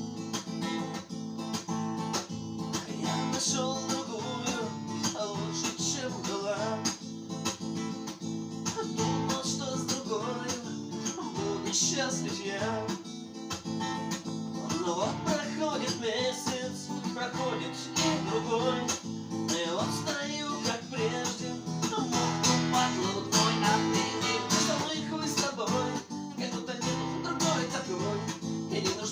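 Acoustic guitar strummed and picked in a steady rhythm, an instrumental passage of a song played without singing.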